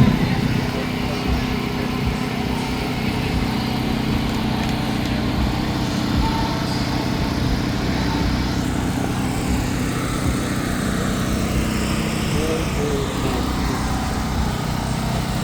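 A small engine running steadily, a constant low hum with background voices.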